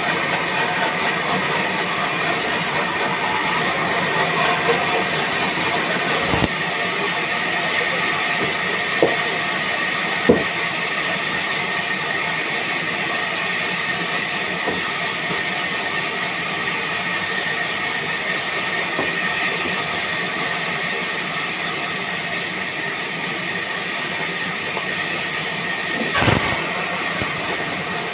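Sawmill machinery running steadily with a constant hissing noise and a faint high whine, with a few sharp knocks now and then.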